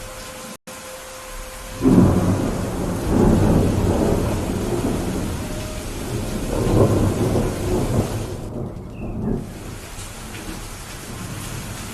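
Steady heavy rain with a long roll of thunder that breaks in about two seconds in, rumbles in several swells, and fades away after about nine seconds. The sound cuts out for a split second just before the thunder.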